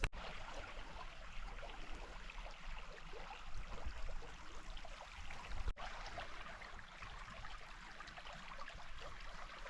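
Creek water running, a steady rushing babble with a low rumble underneath; it cuts out for an instant a little past halfway.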